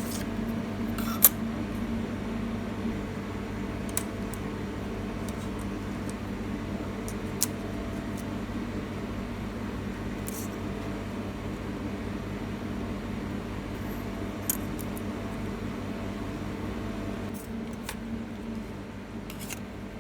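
A steady low hum, like a fan, with a few sharp, scattered clicks and light metallic clinks, the loudest a little over a second in.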